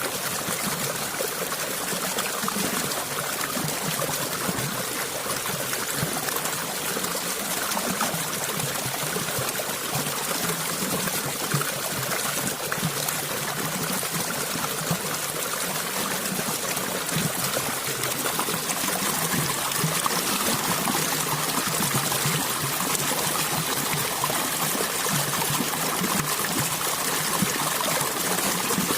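A small stream of water flowing and trickling steadily, with a fine splashing, burbling texture.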